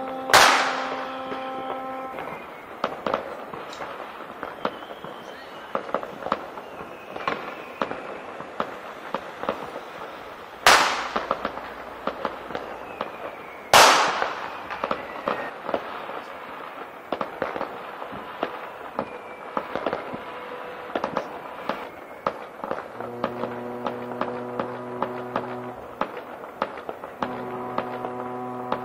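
Fireworks across a city: three loud echoing bangs, one at the start and two about three seconds apart midway, with scattered crackling pops between. Ship horns sound in the bay: a long blast that ends about two seconds in, and two deep blasts near the end.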